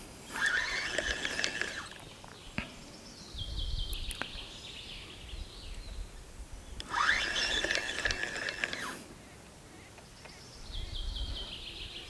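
Spinning reel on a feeder rod being cranked to retrieve line, in two bursts of winding about 1.5 to 2 seconds each, a fast ticking with a steady whirr. The line is wound in a little at a time while the sinker is dragged along the bottom to feel it.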